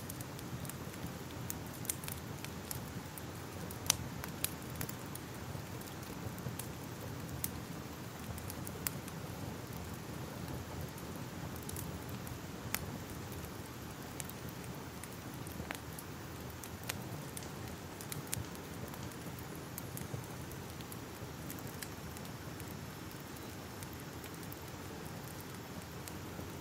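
Crackling fire: a steady low hiss and rumble with irregular sharp pops and crackles, one louder pop about four seconds in.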